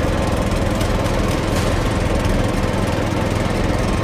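Engines of heavy construction machinery running steadily in a continuous low drone.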